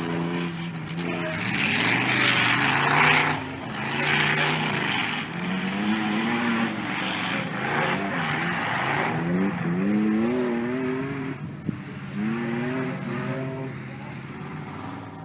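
Off-road tough trucks' engines revving hard on a dirt track, the pitch climbing and falling again and again as the drivers work the throttle. There is a loud rushing burst of noise about two seconds in.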